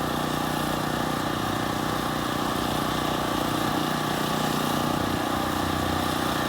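An engine running steadily at idle, a constant hum with several held tones.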